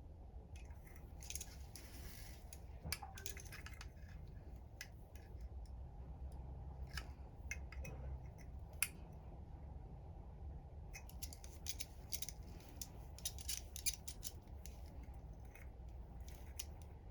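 Scattered small clicks and rustling of something being handled, with clusters of them about a second in and again in the second half, over a steady low hum.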